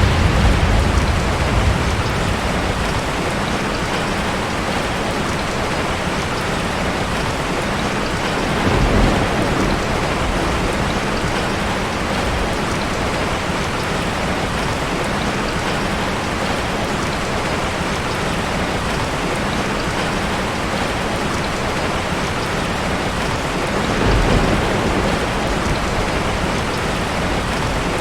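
Heavy rain falling steadily, with low rolls of thunder: one fading away at the start, a short one about nine seconds in, and another near the end.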